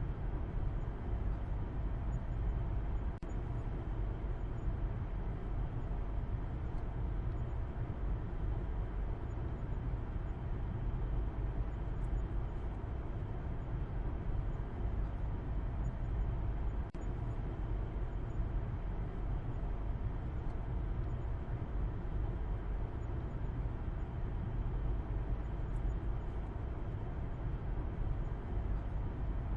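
A car driving at a steady speed, a constant low rumble of road and engine noise that does not rise or fall.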